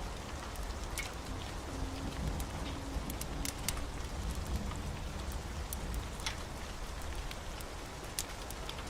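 Steady heavy rain with scattered sharp ticks of individual drops, over a low continuous rumble.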